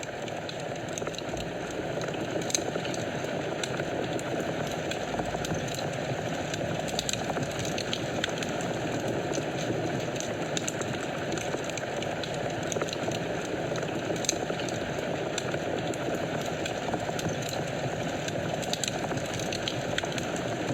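Wood fire burning in a fireplace: a steady hiss of flames with frequent small crackles and pops scattered through it.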